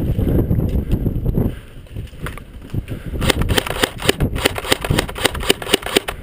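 A low rumbling noise for the first second and a half, then a quick, irregular run of sharp snapping shots from an airsoft rifle, about five a second, in the last three seconds.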